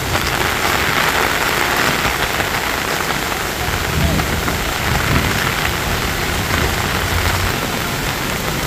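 Heavy rain falling steadily: a dense, even hiss of rain on water and road.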